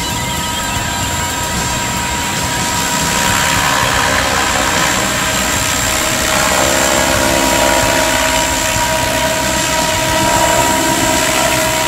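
Large electric scale RC Bell 212 Twin Huey helicopter in flight: steady whine of its electric drive with the chop and swish of the rotor blades. The whine's pitch shifts about six and a half seconds in as it manoeuvres.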